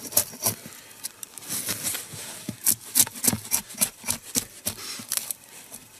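A quick series of light, sharp knocks, irregular at first and then about three a second, from wedges being tapped into the crack of a log being split lengthwise.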